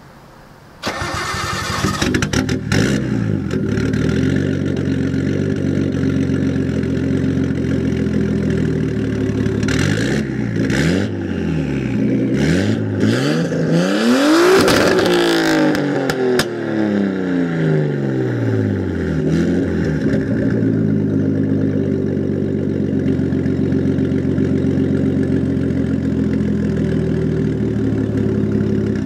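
Nissan RB20DET turbocharged inline-six through a 3-inch straight-piped exhaust, starting up about a second in and then revved several times, the highest rev about halfway through, with a couple of sharp cracks just after it. It then settles into a steady idle.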